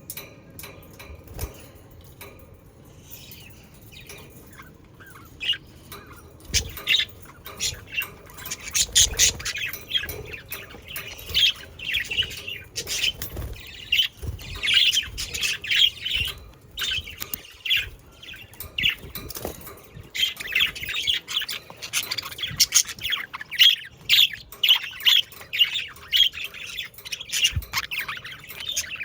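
Budgerigars chattering, with rapid chirps, warbles and squawks. It is sparse for the first few seconds, then becomes a dense, busy run of calls from about seven seconds in.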